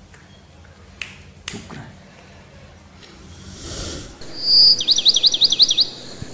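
A bird's call, the loudest sound: one held high whistle followed by a quick run of about eight rapid up-and-down chirps. Before it there are two sharp clicks about a second in, then a soft whoosh that swells and fades.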